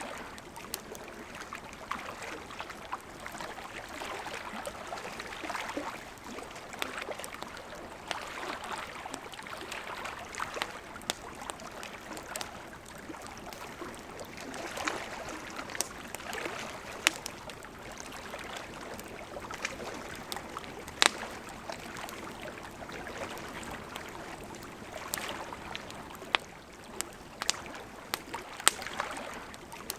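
Campfire crackling, with sharp pops scattered irregularly and a few louder ones, over the steady rush of a gently flowing river.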